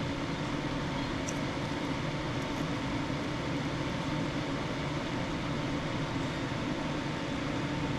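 Steady hum of a fan running, with a faint constant high tone and no clear events.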